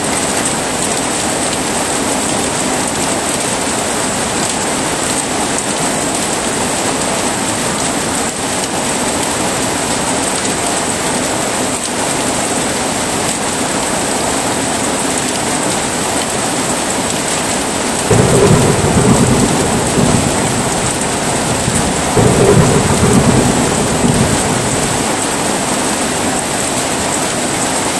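Steady heavy rain, with two low rolls of thunder about two-thirds of the way through, a few seconds apart, each lasting about two seconds.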